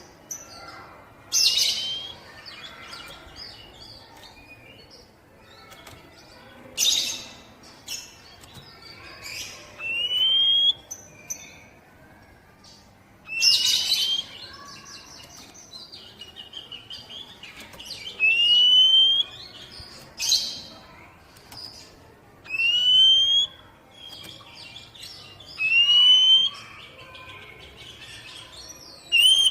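Oriental magpie-robin (kacer, poci type) singing: clear upward-sliding whistles repeated every few seconds, alternating with short harsh rasping notes.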